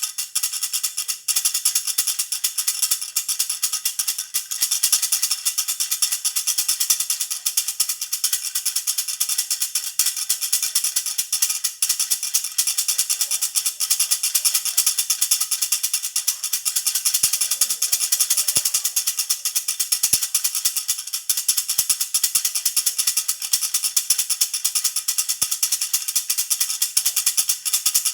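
Baby rattle (jhunjhuna) shaken without a break, making a dense, even jingling rattle.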